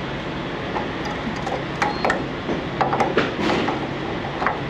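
A few short clicks and knocks, bunched about two to three and a half seconds in, over a steady low hum.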